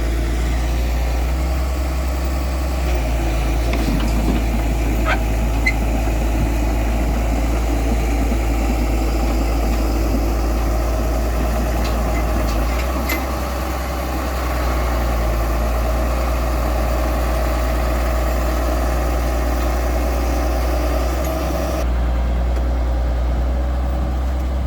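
Heavy diesel engine idling steadily, with a few light metallic ticks over the top.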